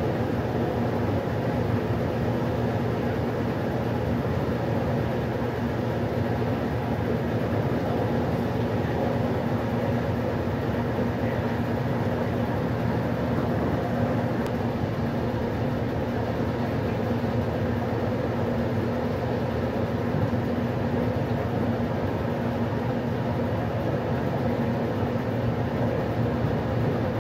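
Westinghouse washing machine running, a steady mechanical noise with a constant motor hum that does not change in level.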